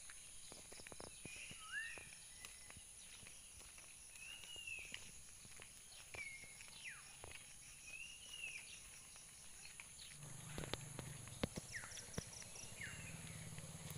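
A bird calling again and again with a short call that rises and falls, over a steady high insect drone and the walker's footsteps on a paved road. About ten seconds in, a low engine hum from a distant vehicle begins and keeps going.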